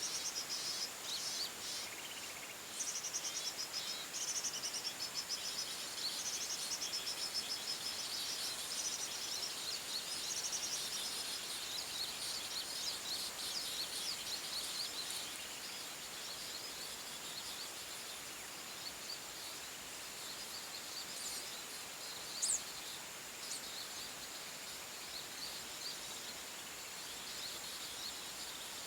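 Forest birds chirping and trilling in rapid high-pitched series, busiest in the first half and thinning out later, over a steady high insect drone. One short, louder rising whistle comes about two-thirds of the way through.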